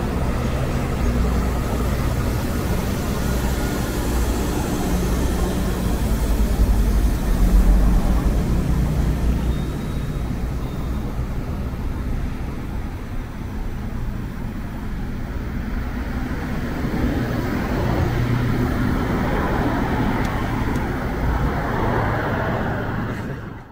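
Diesel rail train rolling past: a steady low diesel rumble, loudest about seven to eight seconds in. It eases, then swells again as a headlit locomotive approaches, and cuts off abruptly at the end.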